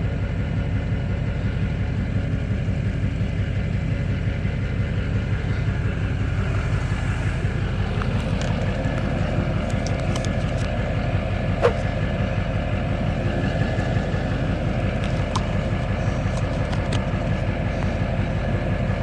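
An engine running steadily, with a low rumble and a few faint clicks, and one sharper click near the middle.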